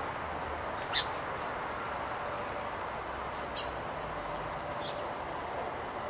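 Short songbird chirps: one sharp chirp about a second in, the loudest sound, and two fainter ones later, over a steady outdoor background hum.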